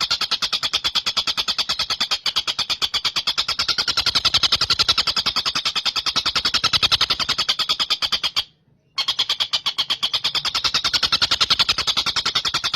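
Tengkek buto (a large kingfisher) calling in a fast, unbroken chatter of sharp high notes, about a dozen a second, with a brief break a little past eight seconds in before the chatter resumes.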